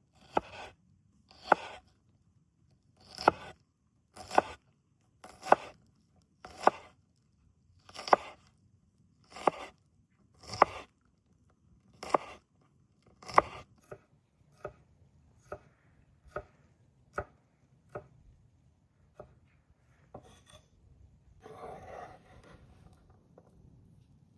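A knife chopping food on a cutting board: about a dozen firm, evenly spaced strokes a little over a second apart, then lighter, quicker cuts. A short scraping sound comes near the end.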